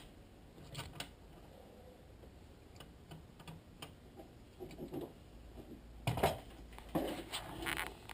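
Faint scattered light clicks and taps. A few louder knocks and a muffled rustle come near the end.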